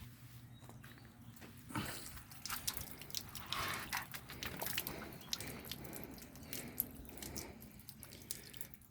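Faint water dripping off a freshly wetted, foamed motorcycle, with scattered small irregular clicks and light knocks.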